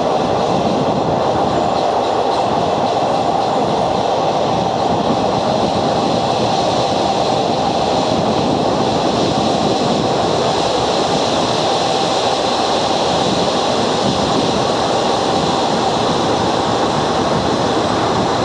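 A train running, with a steady, unbroken rumble and hum that holds at one loud level throughout.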